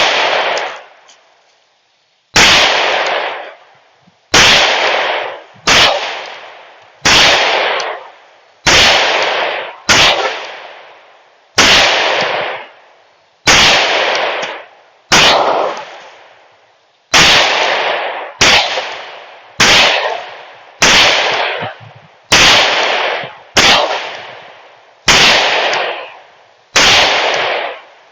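Smith & Wesson M&P 5.7 semi-automatic pistol in 5.7x28mm fired shot after shot at a steady pace, about nineteen loud, sharp shots one to two seconds apart. Each shot trails off over about a second.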